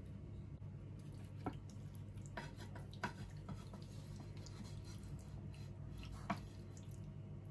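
A few soft, sharp clicks and taps, the clearest about one and a half, three and six seconds in, over a steady low hum.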